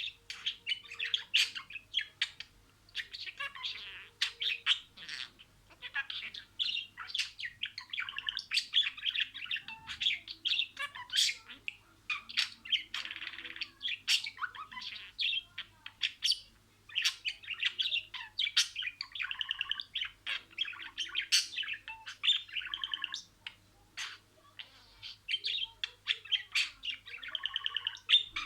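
Budgerigar chattering and warbling: a near-continuous run of quick chirps, clicks and trills with short pauses.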